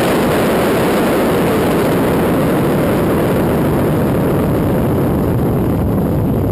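Twin-turbo 4-litre V8 of a 1970 Ford Capri running as the car rolls along, heard through a camera mounted on the car's body as a steady rumble with no clear pitch.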